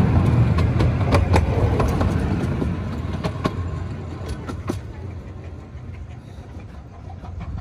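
Coaches of a 15-inch gauge miniature railway train rolling past on the track, the wheels rumbling with irregular sharp clicks and clacks on the rails. The sound fades steadily as the last coach draws away.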